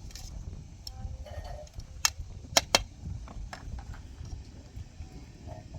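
A few sharp knocks or taps, the loudest three close together about two to three seconds in, over a low rumbling background.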